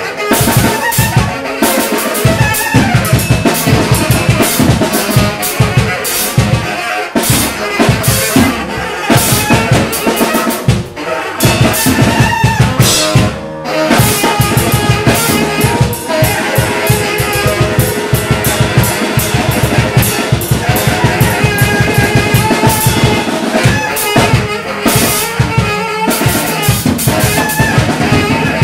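Free-improvised noise music: a drum kit played fast and dense, with snare, rimshots and bass drum, under held, wavering lines from tenor saxophone and cello.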